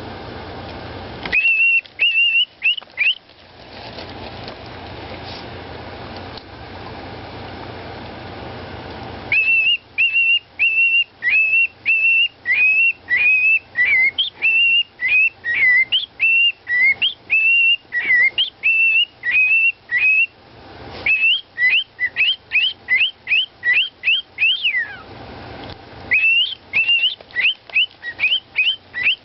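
Parrot whistling a tune in runs of short, quick whistled notes that rise and fall, with pauses between the runs. One run ends in a falling glide. A steady low hum fills the pauses.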